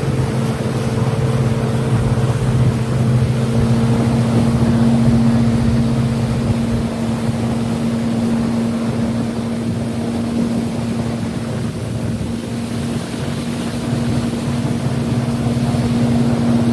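Motorboat engine running steadily while under way, a constant low hum with the rush of wind and water over it.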